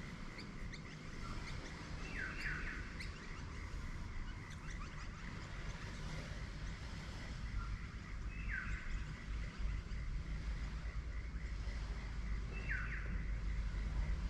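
A bird gives three short calls, each sweeping downward, spaced several seconds apart, over a steady low outdoor rumble.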